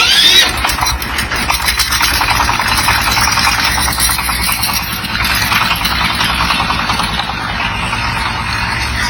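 Truck engine running steadily with a fast, even pulsing clatter, with a brief high squeal right at the start.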